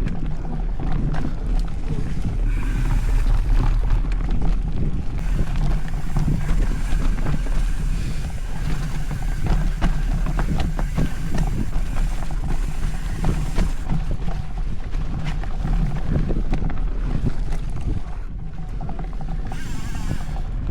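Wind buffeting the microphone over the rumble and rattle of a mountain bike riding a dirt trail, with frequent small knocks.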